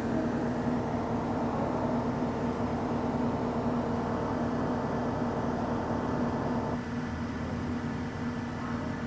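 Steady mechanical hum of background machinery, with a faint high whine that cuts out about seven seconds in.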